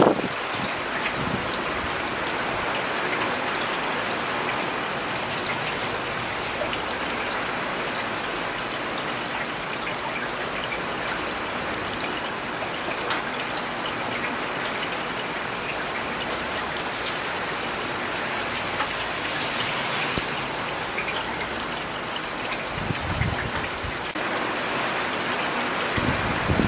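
Steady rain falling in a city, an even hiss with scattered drop ticks. A brief low rumble comes about three quarters of the way through.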